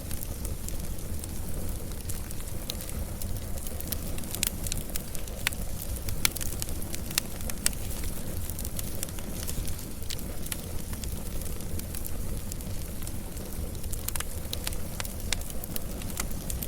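Wood fire crackling steadily, with frequent irregular sharp pops and snaps over a low, even rumble of flame.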